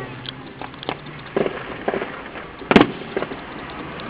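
Fireworks going off: about six sharp bangs and pops at uneven intervals, the loudest a little under three seconds in.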